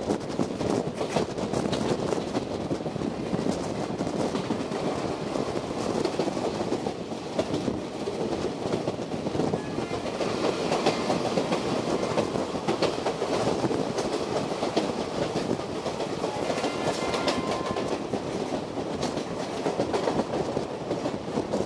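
Indian Railways express passenger train running at speed, its coach wheels clattering steadily over the rail joints, heard from the coach's open doorway.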